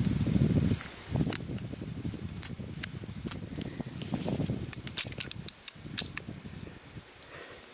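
Handling noise and a series of sharp mechanical clicks from an unloaded rimfire revolver being worked by hand, with a quick cluster of clicks about five seconds in.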